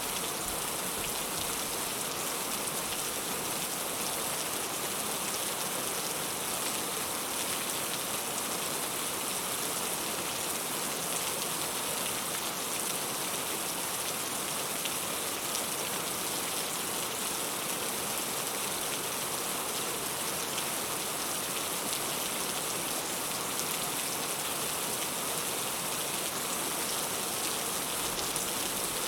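Heavy rain falling steadily, with an even hiss and patter and no thunder.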